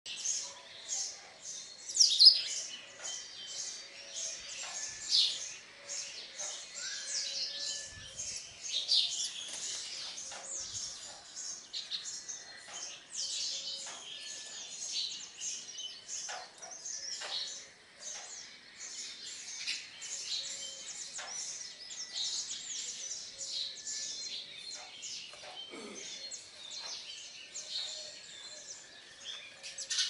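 Small birds chirping continuously, many short overlapping chirps with a few louder calls about two and five seconds in.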